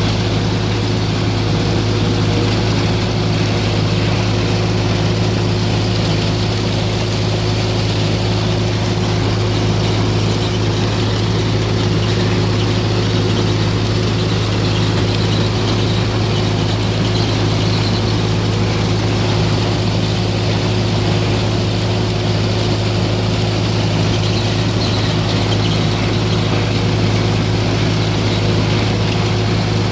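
Old tractor and corn picker running steadily while harvesting corn, a continuous engine hum with a strong low tone that does not change.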